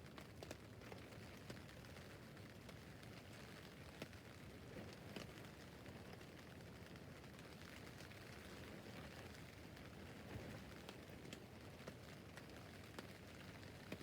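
Light rain falling on a tent roof: a faint, steady hiss with scattered single drops ticking on the fabric.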